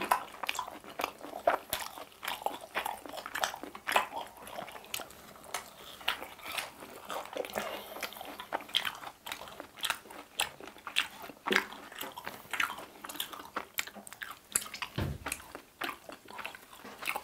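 Chewing and crunching of crispy fried food, a steady run of short crisp crunches and bites.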